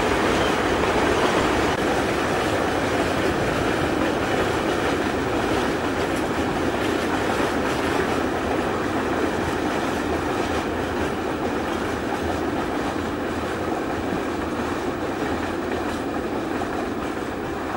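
Freight train's wagons rolling past on the rails, a steady sound that slowly fades as the train draws away.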